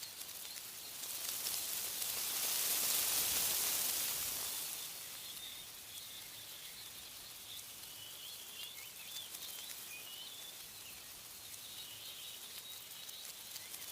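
A gust of wind rushes through tree leaves, swelling over the first few seconds and dying away. Faint, high bird chirps carry on through steady outdoor ambience, clearest in the second half.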